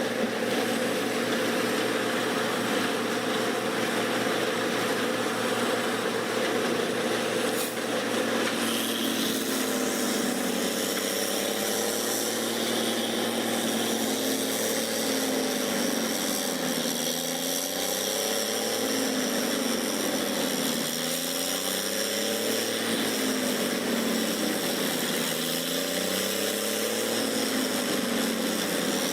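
Heavy forestry wood chipper running steadily. From about ten seconds in, its engine note sags and recovers every two to three seconds as the load comes and goes.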